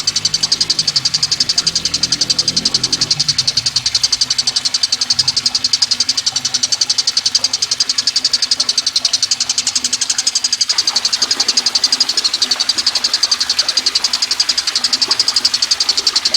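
Recorded call of a tengkek buto: a fast, even, high-pitched rattling trill that goes on without a break.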